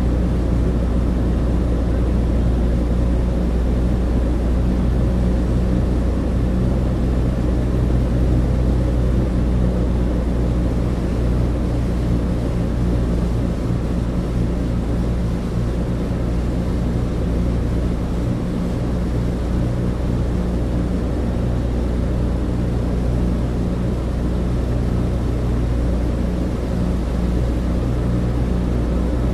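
Douglas DC-3 cabin interior: the steady drone of its two radial piston engines and propellers, with a low rumble under a hiss of rushing air.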